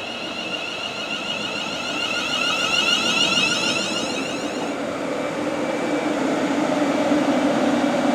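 London Northwestern Railway Class 350 electric multiple unit arriving: a high-pitched whine of several steady tones, growing louder, that drops to a lower hum about five seconds in.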